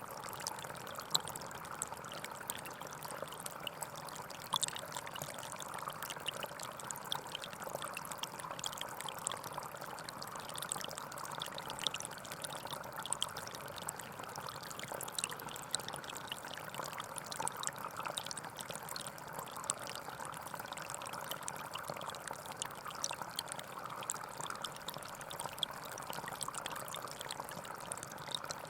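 Gentle forest stream flowing steadily: a continuous water babble with many small splashes and trickles.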